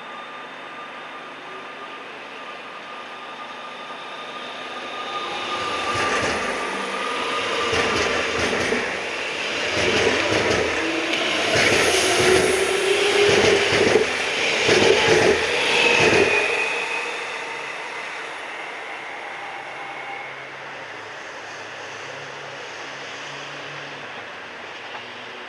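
A train passes through the station: it builds up over a few seconds, goes by loudly for about ten seconds with a run of wheel clatter over the rails, then fades away.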